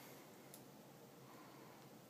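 Near silence: room tone, with a couple of very faint clicks near the start.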